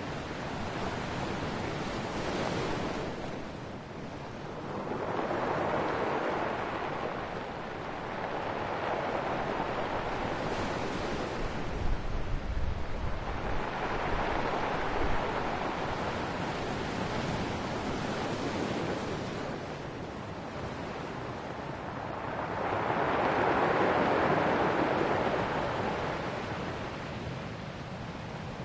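Ocean waves breaking and washing on the shore, rising and falling in slow surges several seconds apart, the loudest near the end.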